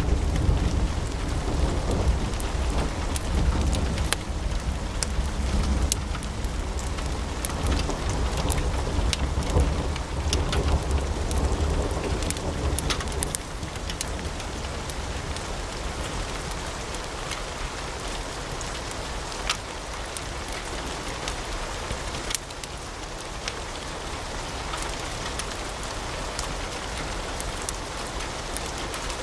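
Wood fire burning in a fireplace: a steady hiss of flames with scattered sharp crackles and pops. A low rumble under it drops away about halfway through.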